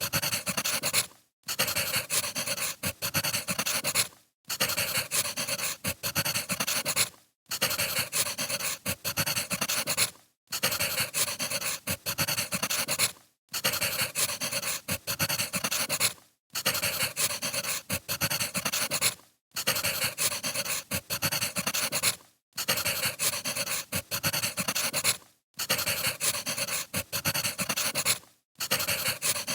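Firewood crackling in a fire, a dense run of pops and hiss. It comes as a short loop of about three seconds that cuts out briefly before each repeat.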